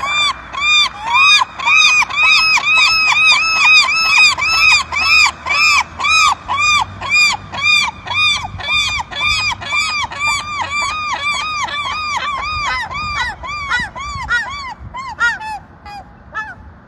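Gull calling in a long rapid series of repeated squawking notes, about three a second, that slows and fades out near the end.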